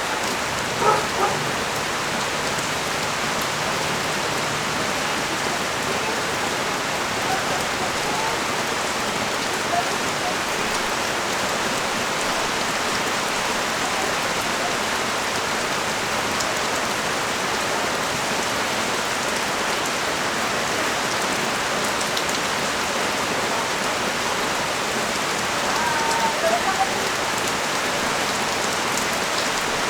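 Steady rain falling on the street and nearby surfaces: an even, unbroken hiss. Faint, brief pitched sounds come just after the start and again about 26 seconds in.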